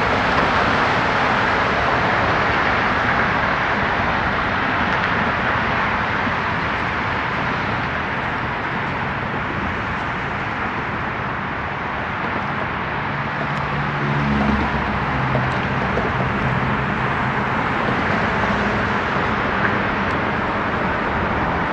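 Steady roar of road traffic, with a vehicle engine's low hum coming in about two-thirds of the way through.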